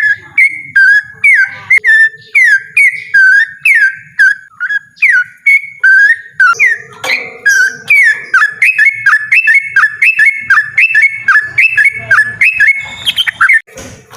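Yellow-vented bulbul singing a loud, unbroken run of short whistled, sliding notes, about two or three a second, quickening in the second half into a rapid rolling series. A brief noise interrupts it near the end.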